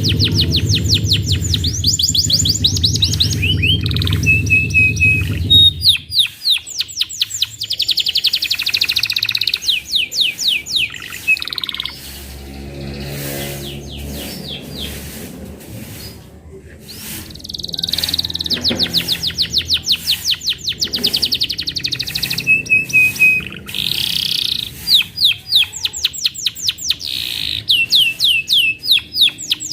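Domestic canary singing: fast trills and rolling runs of rapidly repeated high notes, broken by short pauses. The song goes quieter for a few seconds in the middle, then comes back full. A low background sound sits under the first six seconds.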